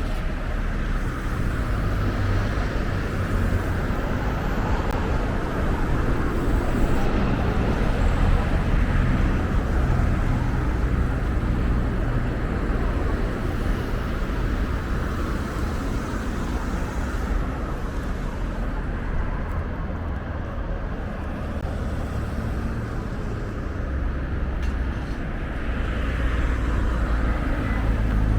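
Steady road-traffic noise: passing cars and a low rumble that swells slightly a few times.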